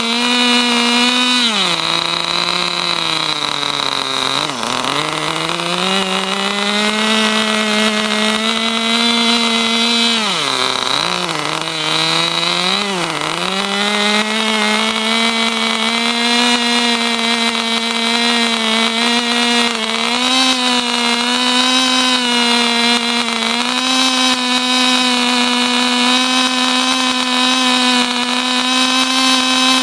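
Small 2.5 cc nitro glow engine of a Kyosho RC buggy running with no load, a steady high-pitched buzz. Its pitch sags and recovers twice, about three to five seconds in and again around ten to thirteen seconds, then holds and creeps slightly higher near the end.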